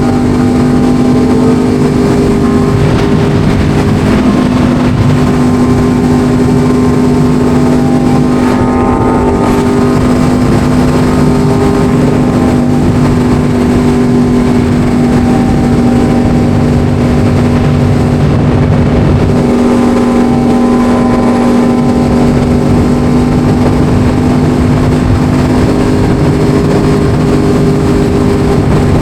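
Motorcycle engine running at a steady cruising speed, its pitch holding nearly constant, with a brief change in the engine note about twenty seconds in.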